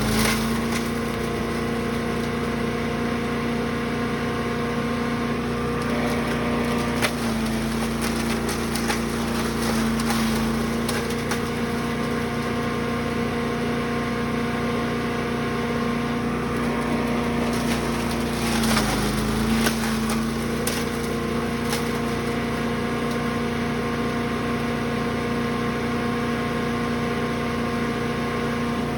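Gas engine of a Brush Master 3-in-1 wood chipper/shredder running steadily while wood is fed through it, with cracking and snapping of branches being chipped. The engine note sags briefly under load about 19 s in.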